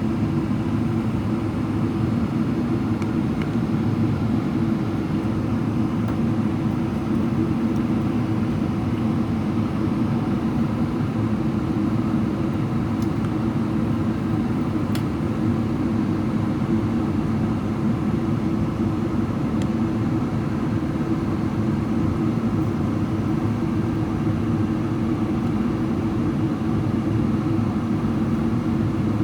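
Steady cabin drone of a Boeing 777-300ER in descent: its GE90 engines humming under rushing airflow, heard inside the cabin from a window seat. It is even and unchanging throughout.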